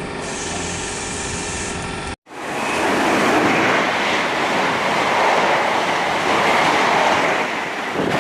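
Trains at a railway station, in two edited clips. First a train running with a steady hum and held tones; then, after a brief cut about two seconds in, a train passing with a loud, even rushing noise.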